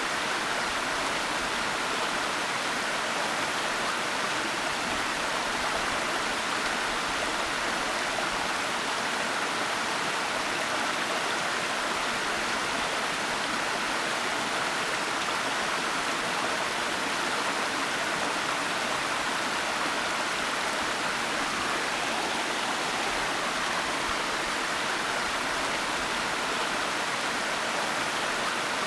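Waterfall: a steady, unbroken rush of falling water, with no breaks or changes.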